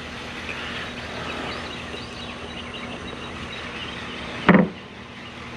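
Outdoor street ambience: a steady low hum like an idling vehicle, with faint bird chirps. About four and a half seconds in there is a single short, loud knock-like sound.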